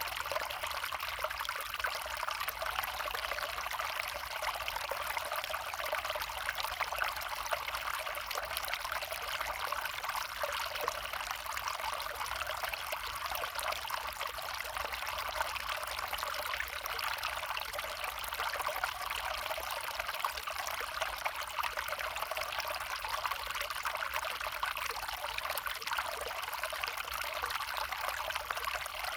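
A small stream running over stones, a steady trickling rush of water.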